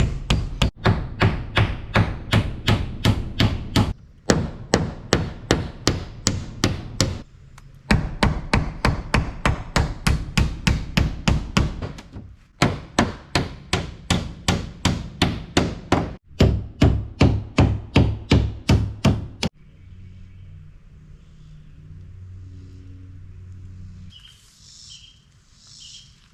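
Hammer driving nails into T1-11 plywood siding: fast, even strikes, about three or four a second, in runs of several seconds with short pauses between. The hammering stops about three-quarters of the way through.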